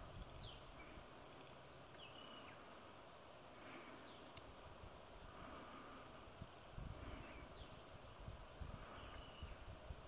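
Faint wetland bird calls: short, high, downward-sliding whistles repeated every second or two over a low rumble.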